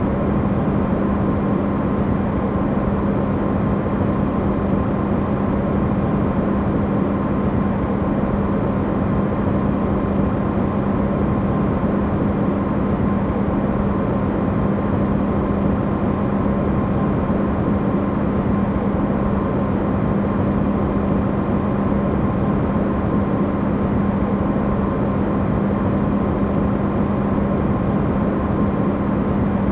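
Amplified running hum of an Electrolux refrigerator: a steady low drone with a constant hum tone over even noise, unchanging throughout.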